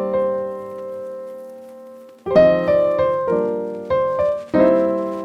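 Background piano music: sustained chords struck and left to ring and fade, with a long held chord dying away before a run of new chords about two seconds in.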